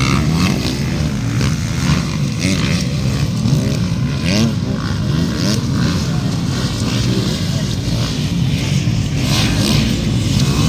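Several motocross dirt bikes racing together, their engines revving up and down in overlapping rising and falling pitches.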